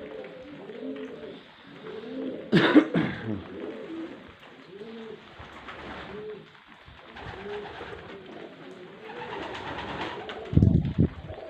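Pigeons cooing over and over, with a steady hiss of rain behind. There are two brief louder noises, one a few seconds in and one near the end.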